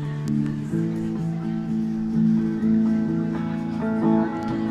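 Acoustic guitar strumming chords, an instrumental intro to a song.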